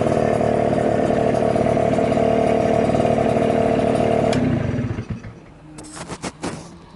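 Suzuki Hi 50cc two-stroke scooter engine with an aftermarket coiled expansion chamber running steadily, then shut off about four seconds in and dying away quickly. A few sharp clicks and knocks follow.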